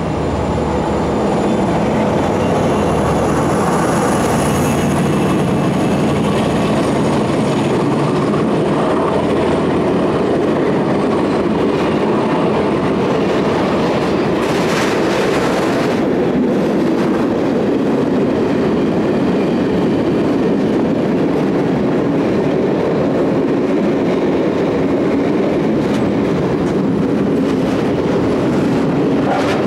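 A train running past on the line, with loud, steady wheel-and-rail noise. A thin high whine comes in about four seconds in, and a brief brighter rush of noise about halfway through.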